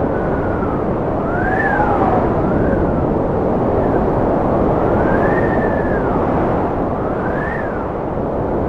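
Strong cold wind blowing with a steady low rush, and a high whistling howl that rises and falls in pitch again and again.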